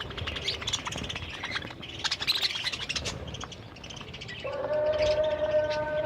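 A flock of budgerigars chirping and twittering in many short, high calls. About four seconds in, a steady held tone with overtones starts underneath and carries on.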